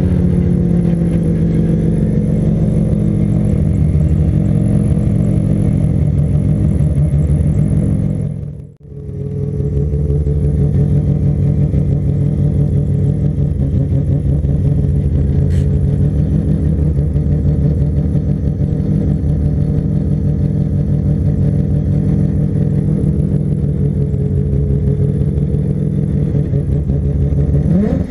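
Mazda RX-7's rotary engine running while driving at a steady speed, broken by a brief gap about nine seconds in, with the pitch rising near the end as it revs up.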